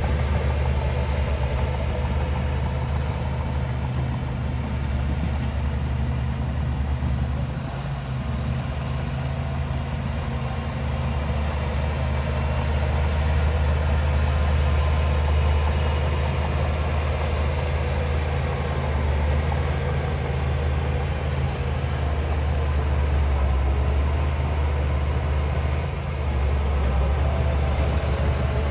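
Heavy diesel engine of earthmoving machinery running steadily with a deep low hum, easing off briefly about eight seconds in and again near the end.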